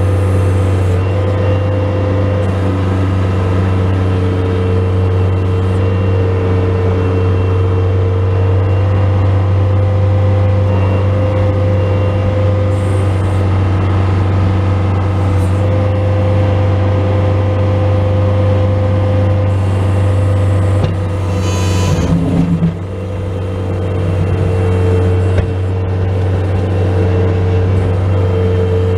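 Bobcat S185 skid steer loader's diesel engine running steadily under load while plowing snow. About three-quarters of the way through there is a brief clatter and the engine note dips, then it settles back.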